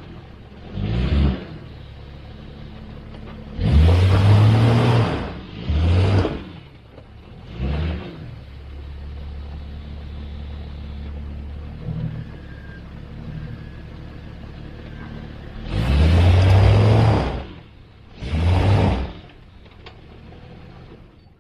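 A Jeep's engine revs in six bursts, two of them longer, and idles in between. The Jeep is stuck in a mud hole and the revving does not drive it out.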